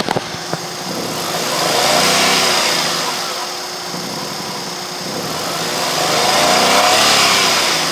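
Maruti Wagon R's 1-litre three-cylinder engine revved twice from idle. Each rev rises in pitch and sinks back over a few seconds, the first peaking about two seconds in and the second near the end.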